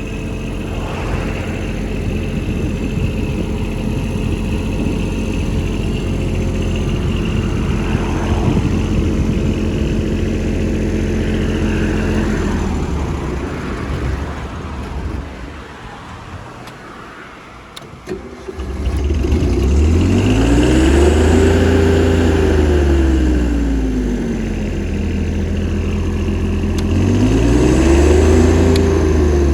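Diesel engine of a Denyo BLW-280SSW II engine welder-generator running steadily, then slowing and dying away about halfway through. About 18 seconds in it runs again and twice revs up and back down.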